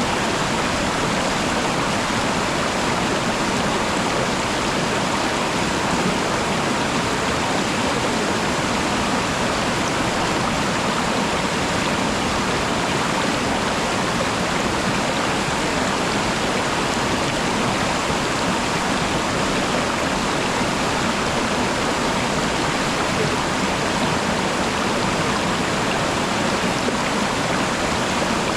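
Steady rush of water from a waterfall, an even, unbroken sound with no change in level.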